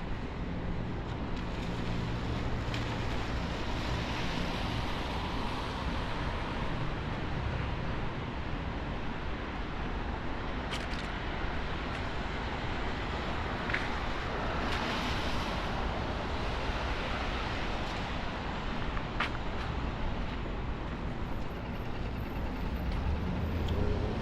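City street traffic on wet pavement: cars pass with swelling tyre hiss over a steady engine rumble, broken by a few sharp clicks.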